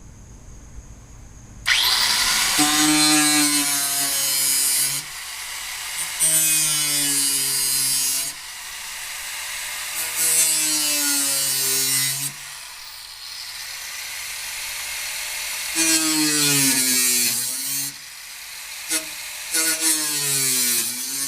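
Handheld electric power tool run in four bursts of a few seconds each, its motor pitch dropping as it bites into the work, then a few short blips near the end.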